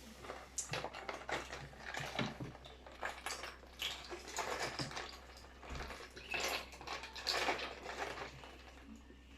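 Someone drinking milk tea close to the mic: an irregular run of short clicks, slurps and chewing noises that dies down near the end.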